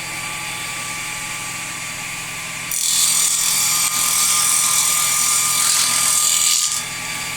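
Table saw running steadily, then about three seconds in its circular blade cuts through wood for roughly four seconds, a loud high-pitched noise over the motor, before dropping back to the saw spinning free.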